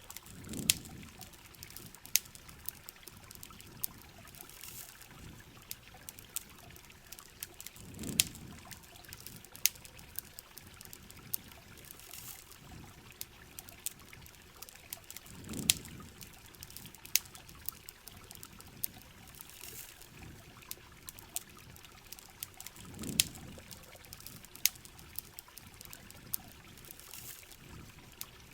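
Steady rain and trickling water, with frequent sharp crackles and pops from a campfire, and a low whooshing swell that comes back about every seven and a half seconds.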